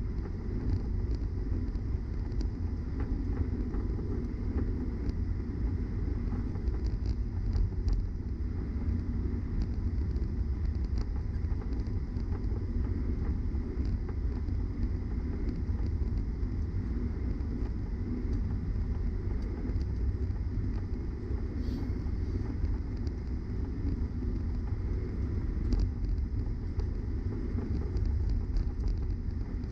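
Cabin noise of a Boeing 737-900ER taxiing: a steady low rumble from its CFM56 engines at taxi power, with a few faint ticks and rattles now and then.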